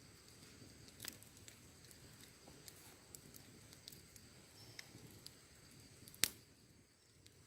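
Wood fire burning with a soft low rustle and scattered small crackles, and one sharp, loud pop about six seconds in.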